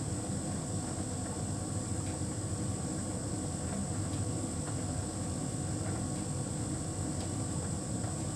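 Hotpoint heat pump tumble dryer running mid-cycle: a steady low hum from the turning drum and machinery, with a few faint ticks.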